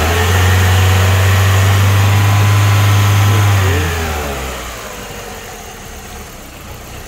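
Car engine running at raised revs with a steady low drone, then the revs drop back toward idle about three and a half seconds in.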